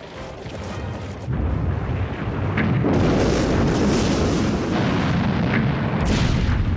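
Battle sound of explosions and artillery fire merging into one continuous rumble, starting about a second in and growing loud near the middle, over background music.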